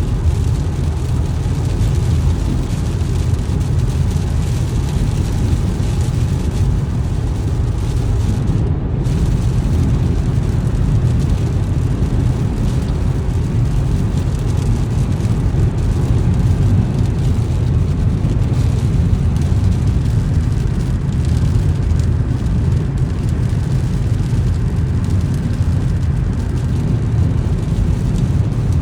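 Car driving on a wet road in the rain: a steady low rumble of tyres and engine, with no changes.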